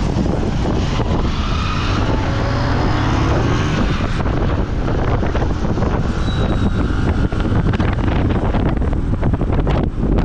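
Wind buffeting the microphone on a moving boda boda motorcycle, over the steady running of its engine.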